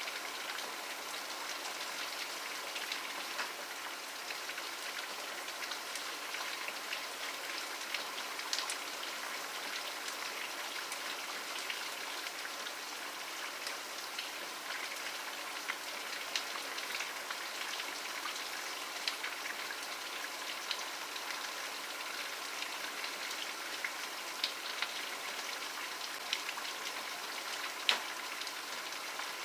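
Steady rain falling, an even hiss with scattered sharp drop hits ticking through it; one drop lands louder near the end.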